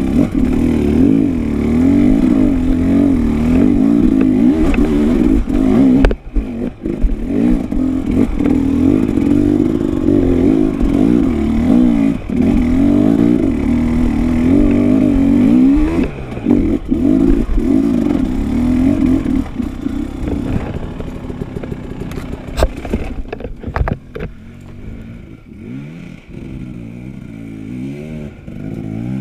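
Enduro dirt bike engine revving up and down as it is ridden over rough ground, with a few sharp knocks along the way. The engine drops back and gets quieter over the last several seconds.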